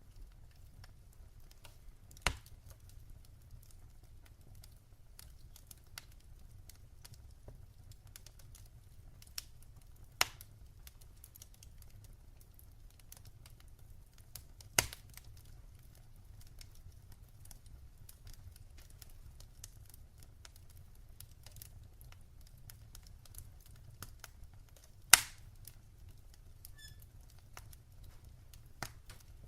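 Fire crackling in a fireplace: a steady stream of faint small crackles over a low rumble, with four sharper, louder pops at about two, ten, fifteen and twenty-five seconds in.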